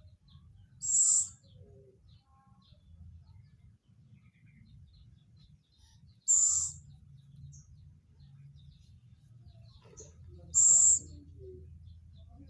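Tame owl giving three short, high-pitched calls, about four to five seconds apart.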